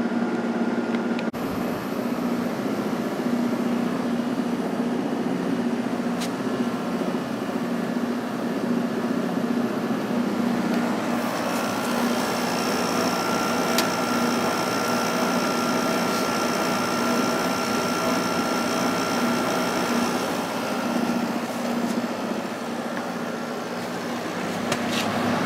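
Emerson Quiet Kool 6,300 BTU window air conditioner running steadily on low fan with the rotary compressor on: a constant low hum under a rush of air. A thin high whine joins in about halfway through for several seconds.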